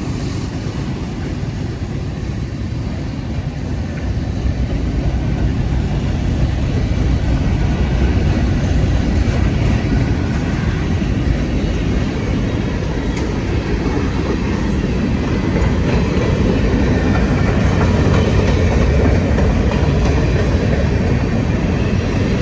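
Freight train rolling past, a steady rumble of steel wheels on rail that grows louder a few seconds in.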